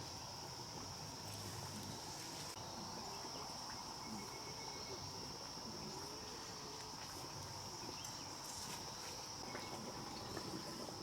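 Steady high-pitched insect chorus, a continuous even drone, with a few faint scattered ticks and rustles.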